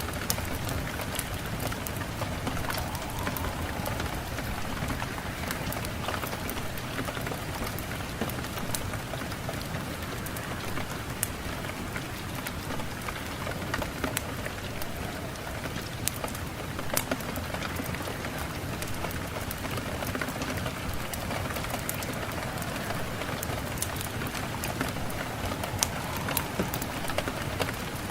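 Steady rain, with many separate drops ticking sharply on a hard surface.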